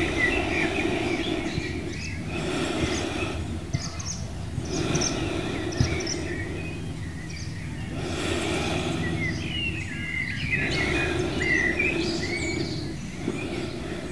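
Small birds chirping and singing, with short whistled notes scattered throughout, over a rushing background noise that swells and fades every few seconds.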